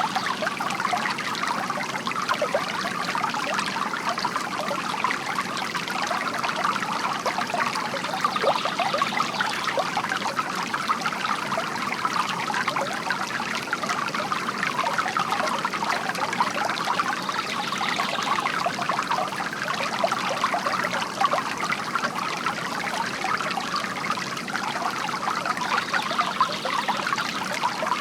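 Bamboo water fountain trickling and splashing steadily: a continuous patter of small falling water.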